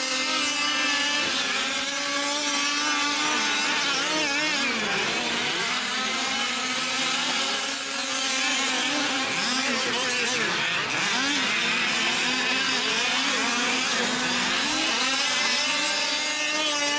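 Several 1/5-scale gas-powered RC off-road trucks' small two-stroke engines buzzing together, their pitches rising and falling as they rev and back off around the track.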